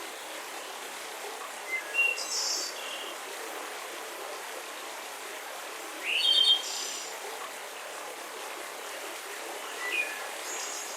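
Forest songbirds giving short chirping calls three times, about two seconds in, a little past the middle (the loudest, starting with an upward sweep), and near the end, over a steady hiss of gentle breeze.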